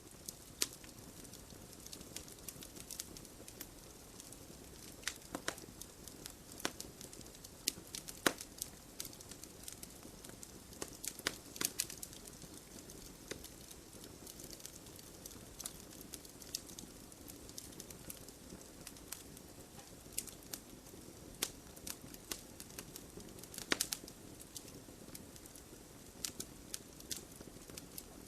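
Logs burning in a fireplace: irregular sharp crackles and pops over a soft, steady low rush of flame.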